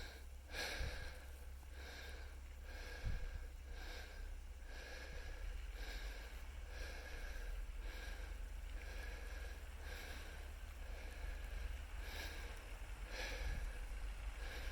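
Jeep crawling slowly off-road: a steady low engine rumble, with a string of short swishing, rattling noises from the vehicle about once or twice a second.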